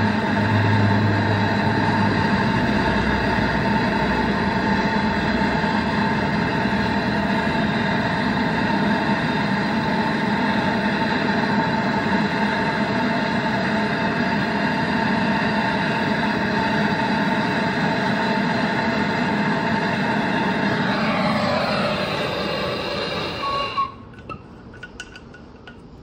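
A machine's electric motor running steadily with a dense mechanical whine. Near the end it is switched off: the pitch sinks as it spins down and then stops, leaving a few faint clicks.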